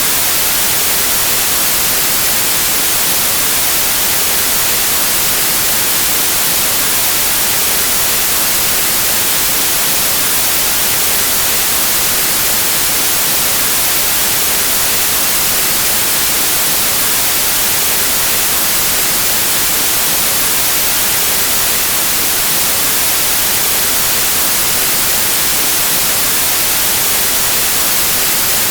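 Steady, unchanging white noise: an even hiss, brighter in the highs, with no other sound.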